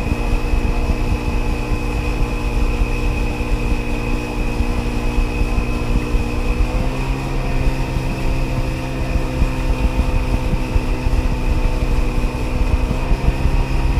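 1994 Sea-Doo XP personal watercraft's 80 hp two-stroke engine running at a steady cruising speed, with a steady high whine over it; the engine note steps up slightly about seven seconds in.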